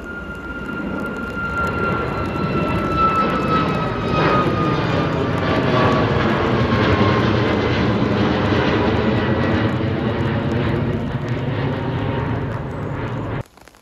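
A departing jet airliner's engines go past: a whine that slides down in pitch over a roar that builds for a few seconds and then holds. It cuts off abruptly near the end.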